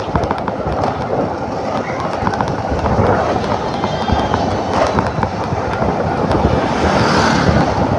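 Steady engine and road noise from a moving motor scooter, with many short clicks and knocks running through it.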